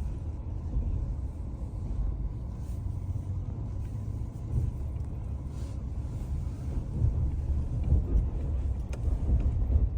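Car tyres rolling slowly over a snow-covered road, heard from inside the cabin as a steady low rumble.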